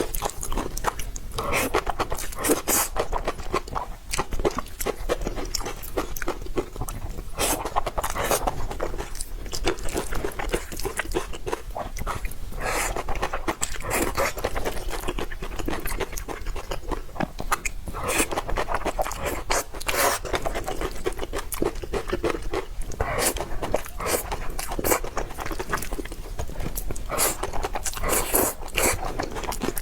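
Close-miked chewing and biting of stir-fried instant noodles, with crunching and wet mouth sounds going on continuously.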